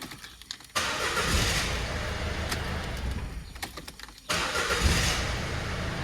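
1.6 diesel engine of a Citroën Berlingo van being started and running, its starter working again now that the blown starter fuse has been replaced. The engine sound comes in suddenly about a second in, drops out briefly about four seconds in and comes straight back.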